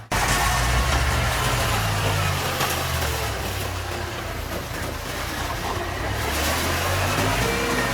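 Heavy diesel engine of earthmoving machinery running, its pitch dropping a little a few seconds in and coming back up near the end.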